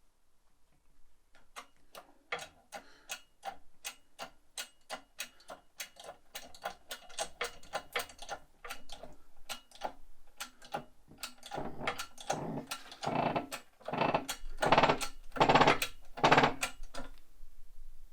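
Rapid, steady tapping, about three light knocks a second, as the bearing is driven onto the electric motor shaft of a Kranzle pressure washer. The knocks turn heavier and louder about two-thirds of the way through as the bearing is seated.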